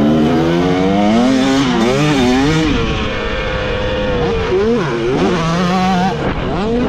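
Dirt bike engine being ridden hard, its pitch rising and falling again and again with the throttle and held steady for a moment near the middle.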